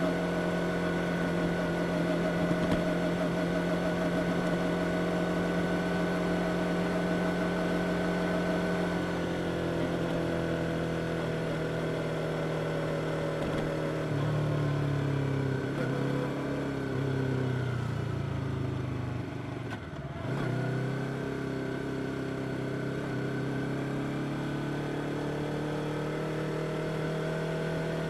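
Yamaha R25's 249 cc parallel-twin engine running at steady revs on the move, then the revs fall over several seconds as the bike slows, dip briefly, and rise again as it picks up speed.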